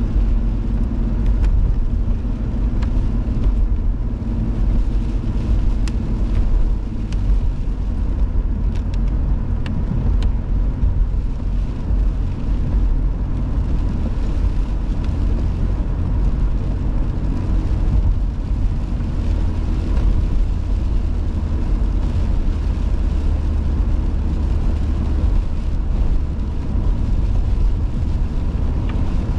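A car driving at a steady speed, heard from inside the cabin: an even, low rumble of engine and road noise.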